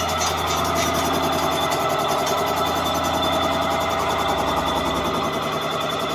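An engine running steadily at an even speed: a constant mechanical hum with a fine, rapid pulse.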